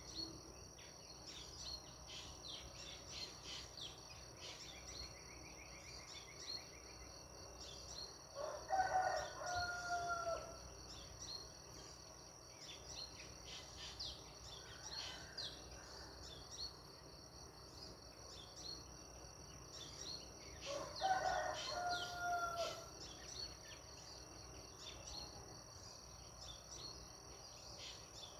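A rooster crowing twice, about twelve seconds apart, each crow lasting about two seconds. Underneath runs a steady high insect trill, with scattered short chirps from small birds.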